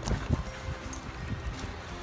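Strong wind buffeting the microphone, giving a low rumble with several sudden thumps, over faint steady background music.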